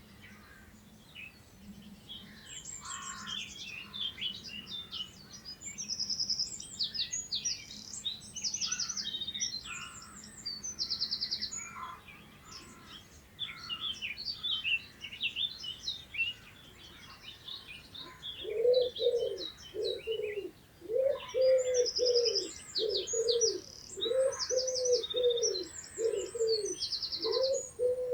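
Several small songbirds singing high chirps and quick trills, joined about two-thirds of the way in by a pigeon cooing: a long, steady run of low coos, about one a second.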